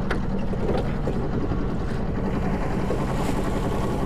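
Strong wind buffeting the microphone in a steady low rumble, with the steady hum of the sailboat's engine running under it.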